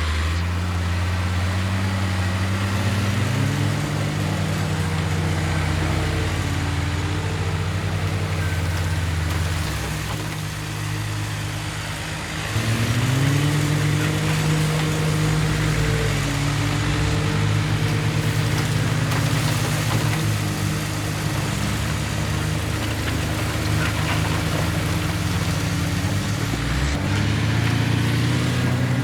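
Heavy construction machine's diesel engine working under changing load: its pitch rises about three seconds in, sags and quiets around ten seconds, climbs again sharply just after twelve seconds, and dips briefly near the end.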